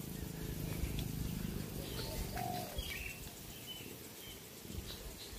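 Faint wild bird calls: a few short high chirps and a brief low cooing note, over quiet outdoor background.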